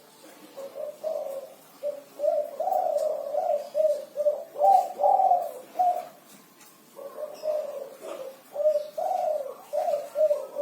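Spotted dove (tekukur, derkuku) cooing: a run of low, repeated coos in a 'kuku 6' song, broken by a short pause about two-thirds of the way through before the next phrase.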